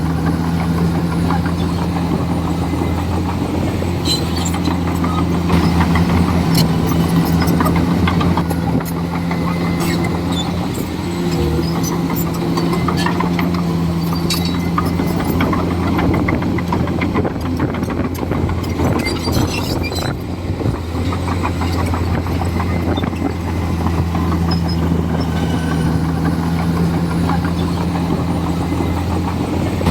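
Komatsu D41E crawler bulldozer's diesel engine running steadily, with scattered short clicks and clanks over the low drone.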